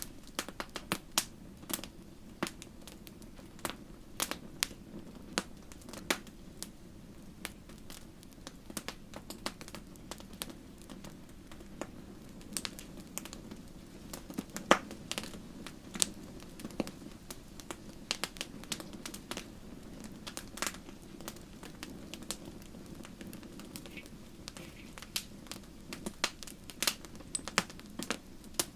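Wood fire crackling: irregular sharp pops and snaps, several a second, over a steady low hiss of burning, with a louder pop about halfway through.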